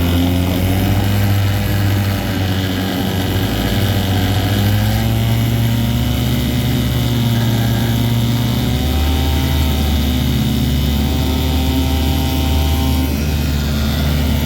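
1960 Johnson 5.5 hp two-stroke outboard motor, an alternate-firing twin, running steadily at low speed, its pitch wavering slightly. The engine has just had its carburettor rebuilt, new plugs and arcing plug wires insulated, and it is running smoothly.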